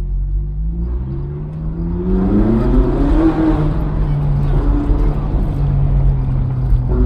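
Ferrari 458 Italia's 4.5-litre V8 heard from inside the cabin as the car pulls away: the engine note climbs in pitch for about two seconds, falls back, then settles into steady low-speed running.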